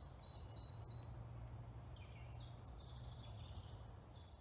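Small songbird singing a fast run of notes that cascade down in pitch, preceded by a few short repeated high notes, over a faint steady low rumble of woodland background.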